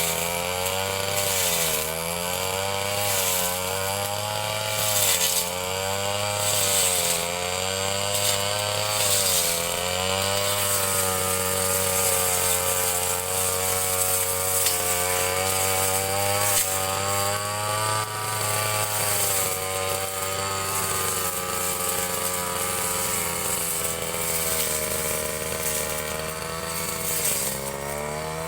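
Ryu 30.5 cc two-stroke brush cutter running at high speed while cutting grass. Its engine pitch dips and recovers every second or two as the blade takes the load, and runs steadier through the middle.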